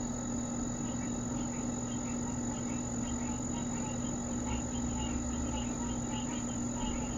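Steady night insect chorus: a continuous high-pitched trill with faint, quickly repeated chirps over it, and a low steady hum underneath. No thunder is heard.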